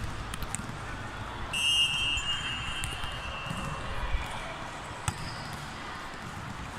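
Basketball game sounds: a ball bouncing on a hard court amid scattered knocks, with a high-pitched tone lasting about a second and a half near the start and a sharp click about five seconds in.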